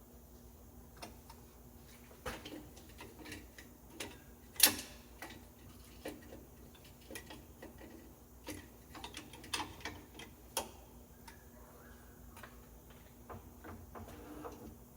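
Scattered light clicks and knocks at an uneven pace, with one sharp, louder knock about four and a half seconds in.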